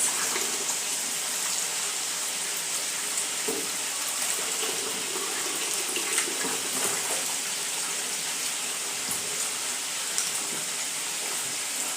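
Kitchen tap running steadily into a sink as vegetables are rinsed under it.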